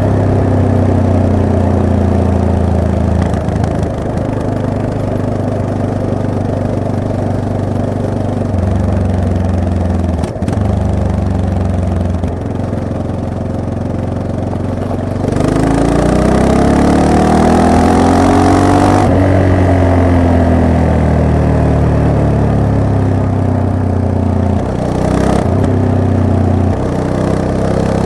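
Yamaha MT-03 motorcycle engine running under way, its pitch shifting as the rider works the throttle and gears. About halfway through the revs climb, hold for a few seconds, then fall away.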